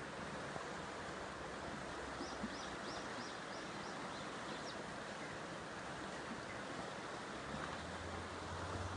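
A small bird gives a quick run of about six high chirps between about two and five seconds in, over a steady outdoor hiss; a low hum builds near the end.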